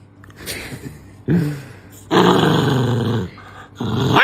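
A dog growling and grumbling in several rough bursts, the longest lasting about a second from about two seconds in, with a shorter one near the end.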